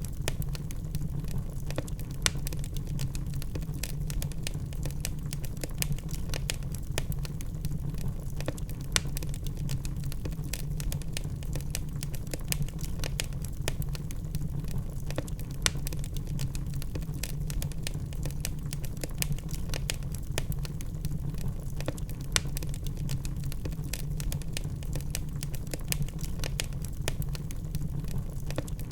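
Logs burning in a fireplace: a steady low rumble under constant small crackles, with a few louder pops several seconds apart.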